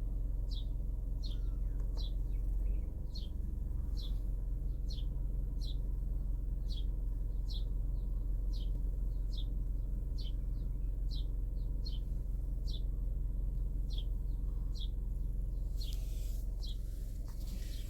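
A bird chirping over and over, a short high note falling in pitch, a little more often than once a second, over a steady low rumble. Near the end there is a brief hiss or rustle.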